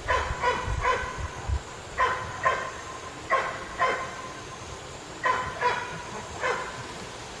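A dog barking repeatedly, about eleven short barks in quick twos and threes. Wind rumbles on the microphone for the first second or so.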